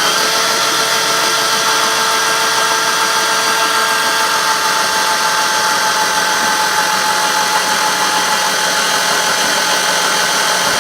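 Ford LRG-423 2.3-litre four-cylinder being cranked over by its starter motor with all spark plugs removed, a steady, even starter whine with no firing. This is the test that showed coolant being pushed into a cylinder.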